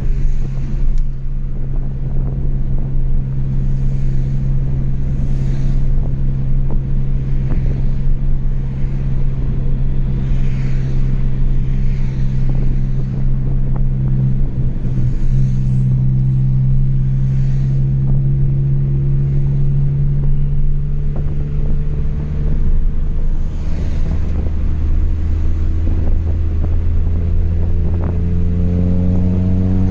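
Chevrolet Astra 2.0 inline-four heard through a straight-through exhaust with no muffler, cruising with a steady drone whose pitch creeps up gently in the middle. About 27 seconds in the pitch drops, as on a gear change, then begins rising again as the car pulls.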